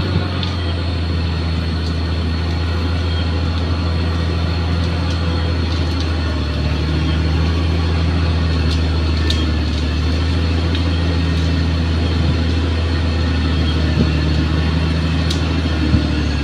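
Bulldozer's diesel engine running steadily at a constant pitch, with a few faint clicks.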